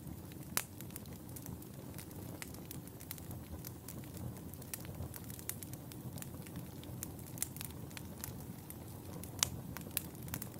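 Wood fire burning in a fireplace: a steady low rumble of flames with frequent sharp crackles and pops, the loudest pops about half a second in and about nine and a half seconds in.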